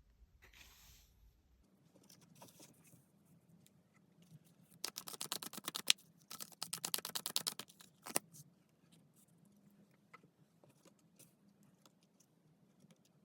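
Tarot cards being shuffled by hand: two quick runs of rapid card clicks, each about a second long, near the middle, with a single sharper snap just after and light rustling and ticks around them.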